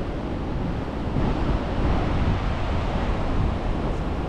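Steady roar of the American Falls at Niagara, with gusty wind buffeting the microphone.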